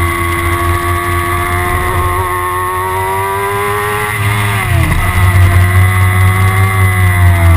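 Kawasaki ZX-6R's inline-four engine running at high revs, its pitch climbing slowly, then dropping sharply about halfway through as it shifts gear, before easing down again near the end.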